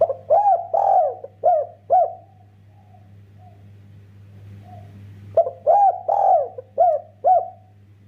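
Spotted dove (derkuku) cooing: two song phrases of about five arched coos each, one at the start and another about five seconds in.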